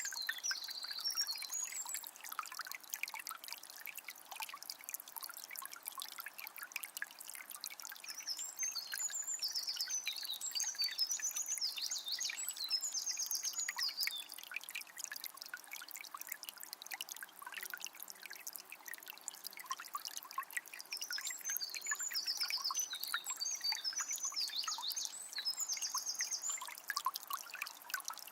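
A small spring trickling and splashing steadily. A songbird sings high, rapid chattering phrases in two bouts, about 8 seconds in and again about 21 seconds in.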